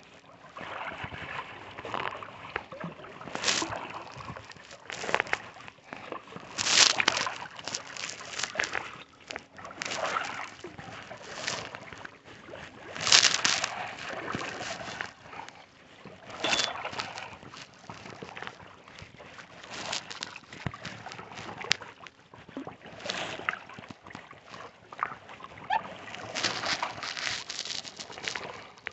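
Kayak paddle strokes: the blades dip and pull through the lake water in a run of splashing swishes, irregular, about one every one to three seconds, with water sloshing against the hull between them.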